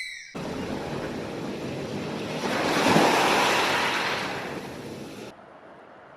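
A rushing noise like surf or wind that starts suddenly, swells to its loudest about halfway through, then fades and cuts off near the end.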